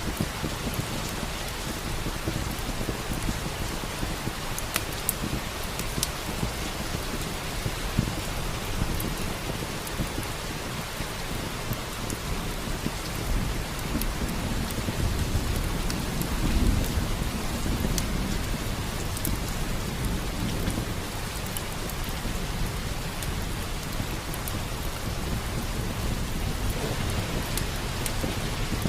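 Steady rain with a low rumble of thunder swelling about halfway through, and scattered sharp crackles of a wood fire.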